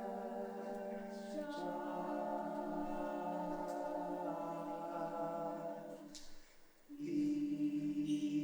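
Voices singing a cappella in sustained, held chords without instruments. The chord shifts about a second and a half in, the singing dies away briefly just after six seconds, then comes back louder on a new held chord.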